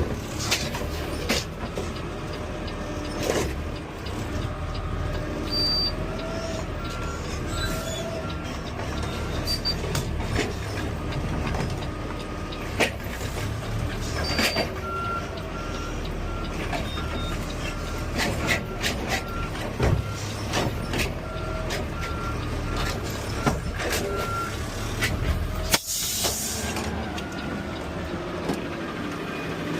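Peterbilt 520 CNG garbage truck with an automated side-loader arm working: the engine runs steadily under clanks and knocks, a warning beeper sounds about once a second for long stretches, and a sharp burst of air hiss, typical of the air brakes, comes near the end.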